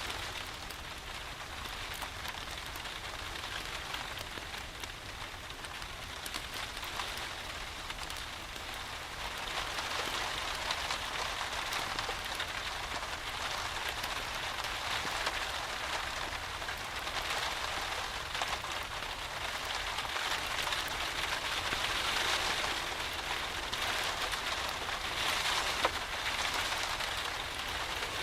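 Steady rain pattering on a surface, mixed with a fireplace crackling; the rain grows a little louder about a third of the way in, and a single sharp pop from the fire comes near the end.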